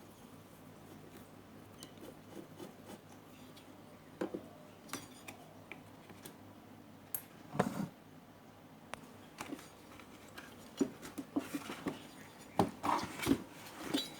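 Scattered clicks and small metallic clinks of a screwdriver, screws and loose parts being handled while a home theater unit is taken apart, coming more often near the end.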